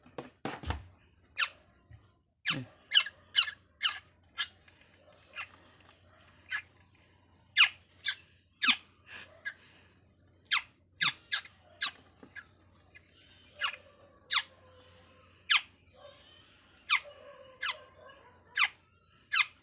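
Rescued bird giving short, sharp, high-pitched chirps, one or two a second at uneven intervals. There is a dull thump about half a second in.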